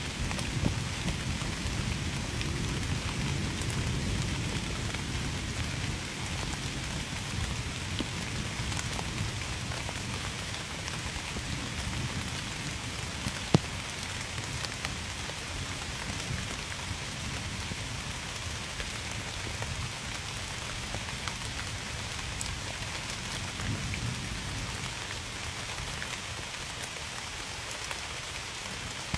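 Steady heavy rain falling on a surface, with scattered drop ticks. A low rumble of thunder fills the first several seconds and fades away, and a single sharp tick stands out about halfway through.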